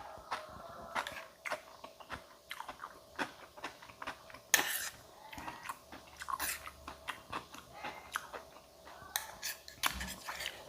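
A person chewing and crunching food close to the microphone, with many short wet, crunchy bites and one sharper crunch about four and a half seconds in.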